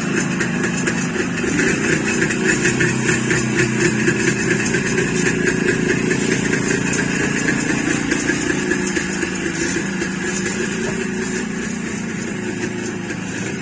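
Jawa motorcycle's two-stroke engine idling steadily soon after a cold start, just beginning to warm up; it runs a little quieter over the last few seconds.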